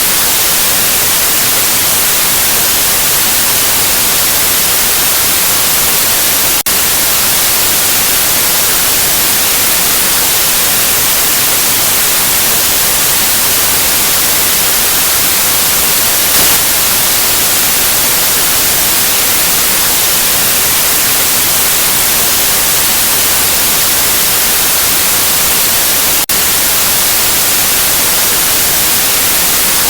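Steady white noise: an even, bright hiss with no tones or rhythm. It dips for an instant about a quarter of the way in and again near the end.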